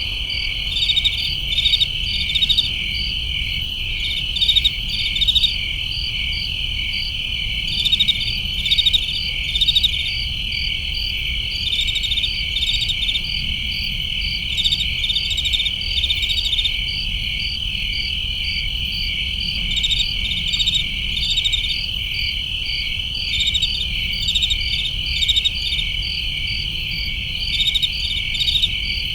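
Crickets chirping in a dense chorus: a steady high trill with short pulsed chirps repeating about once a second over it, and a faint low rumble underneath.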